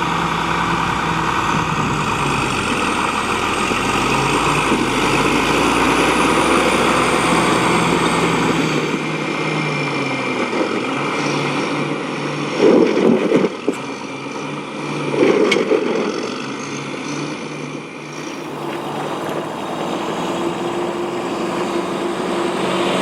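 Tractor engine running, with an abrupt change in the sound about nine seconds in and two short louder surges later on.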